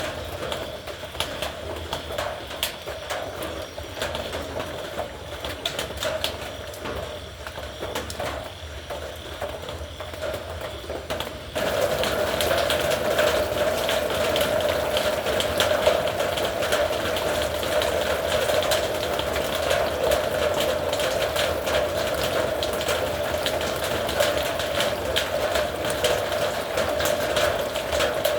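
Rain on a metal roof: a dense patter of drops ticking on the tin. About a third of the way in it suddenly turns louder and heavier, and stays that way.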